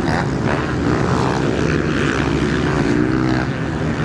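Several motocross bikes racing, their engines revving up and down as they ride the track.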